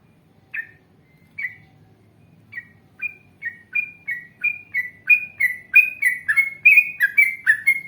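Yellow-vented bulbul (trucukan) singing: a few spaced bubbly chirps, then from about three seconds in a long fast run of repeated two-note phrases, about three a second, growing louder.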